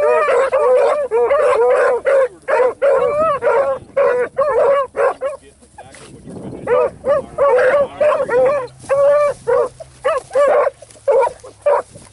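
A pack of hunting hounds baying while running a trail, many voices overlapping at first, then thinning to spaced single bays after a brief lull midway.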